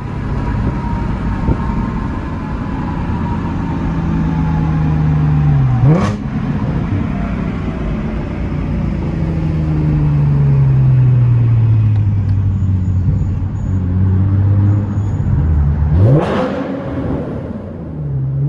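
Nissan 370Z's 3.7-litre V6 on a drive through a Tomei exhaust with a newly fitted resonated Motordyne Y-pipe, the fix meant to clear up the exhaust's raspy sound. The engine pitch sinks slowly as it eases off, broken by two quick sharp revs, about six seconds in and again near the end.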